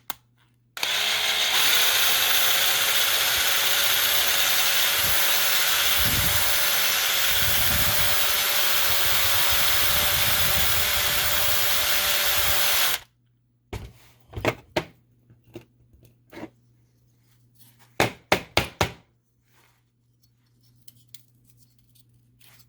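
Electric drill running steadily for about twelve seconds, drilling out the rivet of a diecast Matchbox fire engine, then stopping abruptly. A few light clicks and taps follow.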